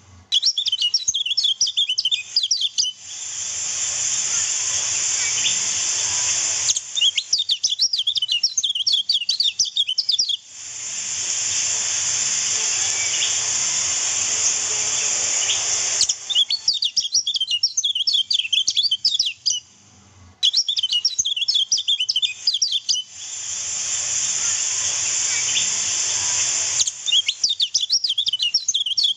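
Kecial kuning (a white-eye) chirping in fast, high twittering bursts. These alternate every few seconds with stretches of steady rushing river water, under which the chirps carry on faintly.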